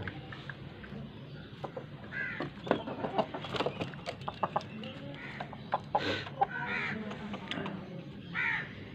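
About four short, harsh bird calls a couple of seconds apart, from chickens in a yard, over scattered sharp taps and clicks.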